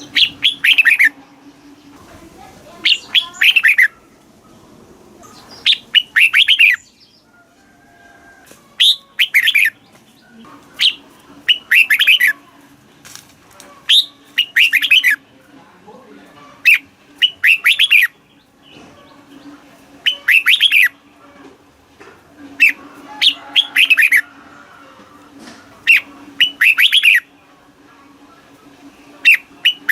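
Red-whiskered bulbul singing: short, loud phrases of rich, falling whistled notes, repeated every two to three seconds.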